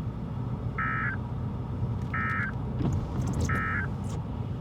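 Three short electronic alert beeps, evenly spaced about a second and a half apart, over steady road rumble inside a moving vehicle.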